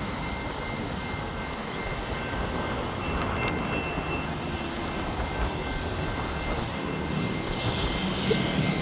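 General Signal Type 2 level crossing bells ringing continuously as faint steady tones, under a steady rumbling noise of wind and traffic.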